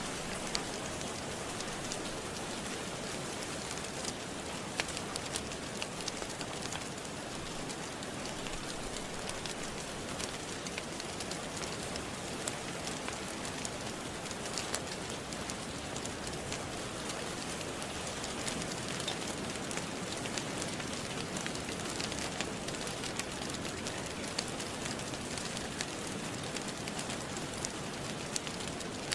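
Steady rain falling on a surface, with scattered sharp crackles and pops from a wood fire mixed in.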